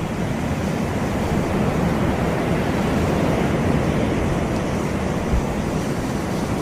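Sea surf on a beach: a steady rush of waves breaking and washing ashore, swelling slightly through the middle. A brief low thump about five seconds in.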